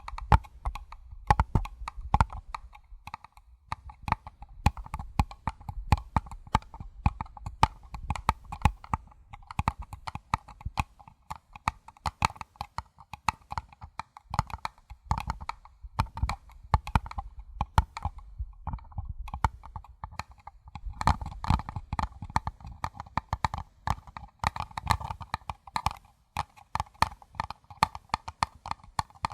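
Fingertips tapping and drumming on paper cups: quick, irregular light taps with a hollow resonance, going on throughout.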